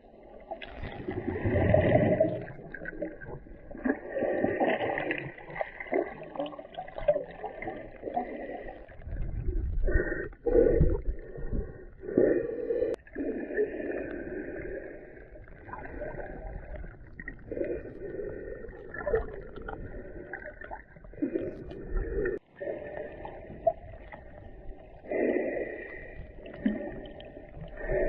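Muffled underwater sound picked up by a submerged camera during snorkelling: sloshing and gurgling water that swells and fades irregularly.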